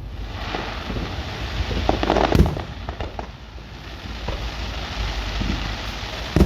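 Fireworks bursting: a hissing crackle through the first few seconds, a loud bang about two and a half seconds in, scattered smaller pops, and another loud bang at the end.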